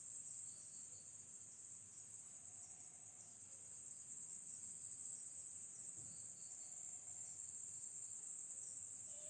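Faint, steady high-pitched chorus of night insects, an unbroken drone.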